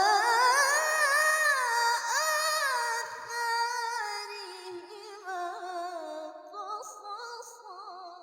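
A woman's voice chanting Quran recitation in the melodic tilawah style, drawing out one long ornamented phrase with a wavering, trilling pitch. The phrase fades away near the end.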